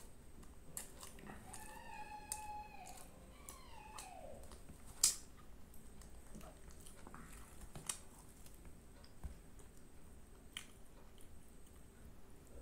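Close-up chewing of a mouthful of food, with wet mouth clicks and smacks, the loudest a sharp click about five seconds in. From about one to four and a half seconds a high-pitched whining tone with overtones sounds, sliding down in pitch as it ends.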